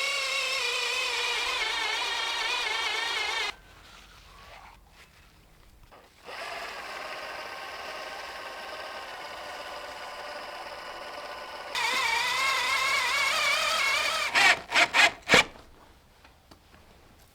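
Electric drill driving a 16 mm auger bit into oak, its motor whine wavering in pitch under load. It stops about three and a half seconds in, runs again more quietly from about six seconds, louder from about twelve seconds, then gives four quick bursts near the end and stops.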